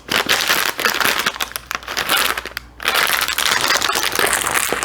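A plastic snack packet crinkling loudly as it is handled, with a short pause a little past halfway.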